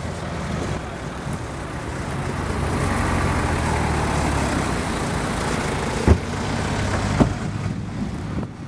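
Heavy lorry's diesel engine running as it moves slowly past, the rumble swelling and easing off over a few seconds. Two sharp knocks come about a second apart near the end.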